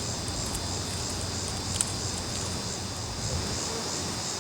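Steady high-pitched outdoor insect chorus, a chirping drone of crickets, over a low steady hum, with one sharp click a little under two seconds in.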